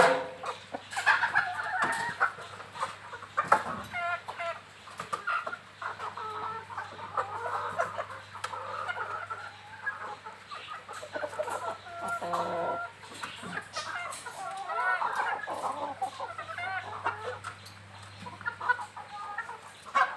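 Native chickens clucking, many short irregular calls overlapping, over a faint steady low hum.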